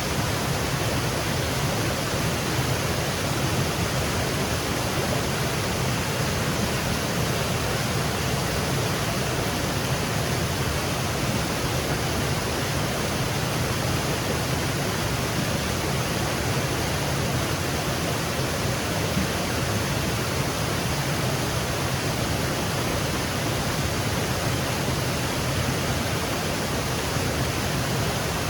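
Small woodland waterfall cascading, a steady even rush of falling water with no breaks.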